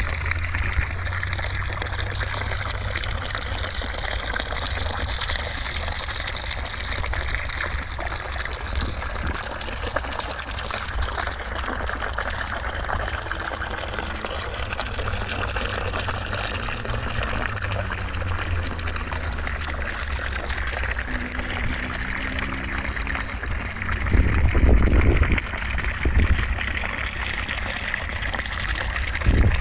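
Steady rushing white noise with a low rumble underneath; the low rumble swells louder for a moment about 24 seconds in.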